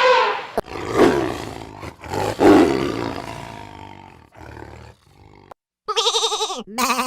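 A big cat roaring twice, the roars peaking about one and two and a half seconds in and fading away. Near the end a different animal's wavering, pitched call begins.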